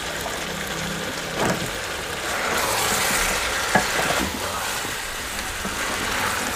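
Cubed raw potatoes sizzling as they fry in a metal pot of chicken and capsicum masala, stirred with a wooden spatula. A few short knocks of the spatula against the pot, and the sizzle swells for a second or two midway.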